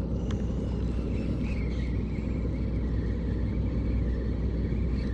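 Steady low rumble of wind buffeting the microphone on the water.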